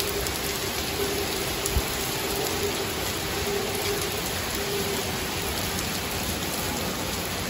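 Torrential rain pouring down in a dense, steady hiss, with a brief low thump about two seconds in.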